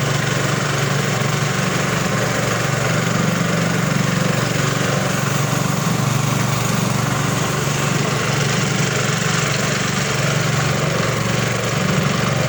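Rabeta longtail outboard motor running steadily at an even speed, driving a canoe upstream.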